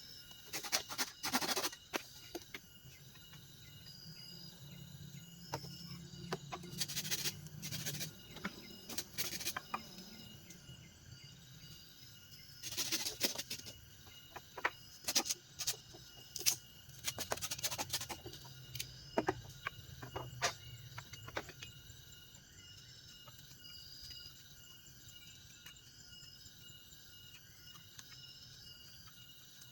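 Insects chirping in steady, pulsing trills, with clusters of sharp clicks and knocks every few seconds.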